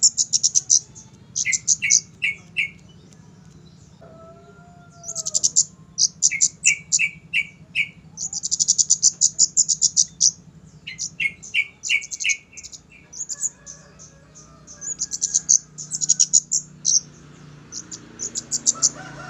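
Kemade bird song: bursts of fast, high-pitched trills alternate with short runs of lower, evenly spaced notes at about four or five a second, repeated throughout. A faint low hum lies underneath.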